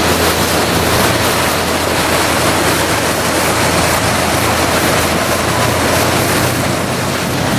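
Heavy downpour: a loud, steady hiss of rain and rushing water, with a faint low hum underneath.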